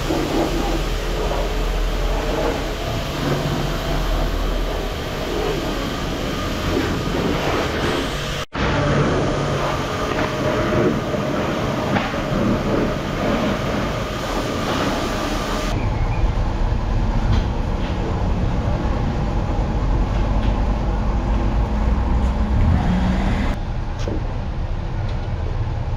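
Steady hiss and rumble of water spraying onto a car as it is rinsed down, with machine noise underneath. The sound changes abruptly twice, at about a third and two thirds of the way through.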